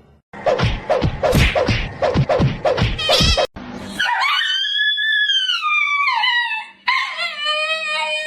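A dog barking quickly about a dozen times, then howling in two long drawn-out howls, the first rising and then falling, the second lower.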